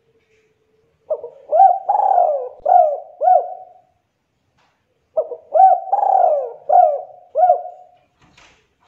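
Spotted dove (tekukur) cooing: two phrases of about five notes each, the second starting about four seconds after the first. A faint click near the end.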